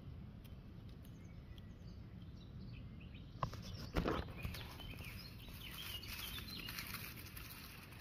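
Faint birdsong in woodland over a low rumble on the microphone. About three and a half and four seconds in come a click and a sharper knock with rustling, as the camera is handled close to the leaf litter.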